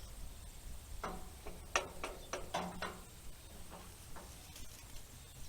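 A series of light, sharp metal clicks and taps, about ten spread over a few seconds, from hand tools working on the fasteners of hay rake teeth.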